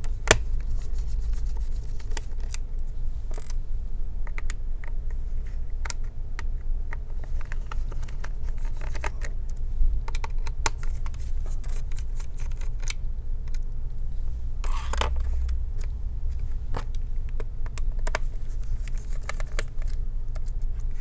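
Small Torx screwdriver undoing the battery screws of a laptop, with scattered light clicks and scraping of the driver, screws and plastic parts being handled, over a steady low hum.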